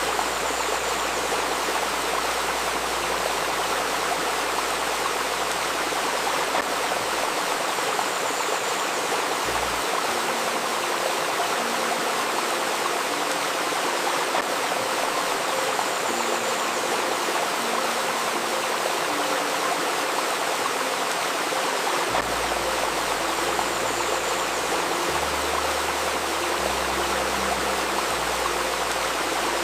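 Steady murmur of a flowing stream, with faint sustained low tones underneath that shift in pitch every second or two: a soft layered 528 Hz healing drone.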